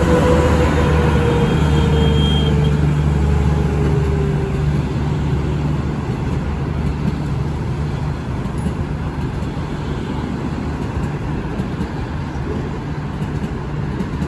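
A train moving through the station: a steady low rumble with a whine that falls in pitch over the first few seconds, the rumble easing off in the second half.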